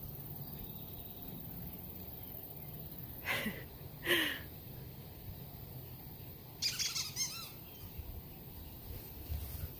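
Birds calling: two short calls that fall in pitch about three and four seconds in, then a quick run of rapid chirps around seven seconds in, over a steady low background.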